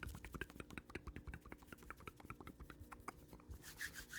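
Rapid, light clicking, about nine clicks a second, that thins out near the end.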